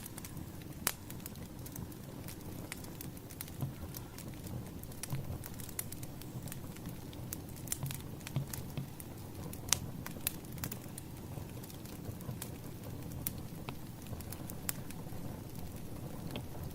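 Wood fire crackling: a steady low rumble of burning logs with irregular sharp pops and snaps, a few louder ones standing out.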